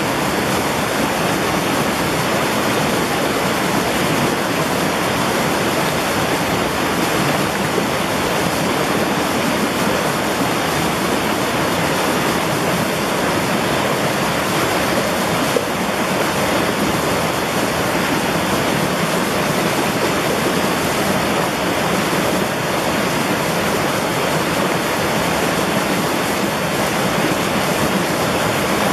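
Mountain valley stream water rushing steadily as a loud, even wash of noise.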